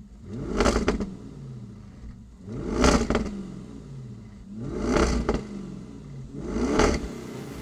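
Audi RS6 Performance twin-turbo V8 through an Akrapovic exhaust system, revved four times from idle. Each rev rises sharply in pitch and then falls back, about two seconds apart.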